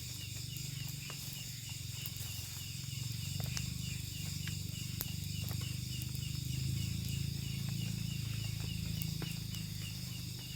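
Night-time tropical forest insect chorus: steady high-pitched shrilling of crickets or cicadas, with one insect chirping regularly a few times a second, over a low rumble and a few faint clicks.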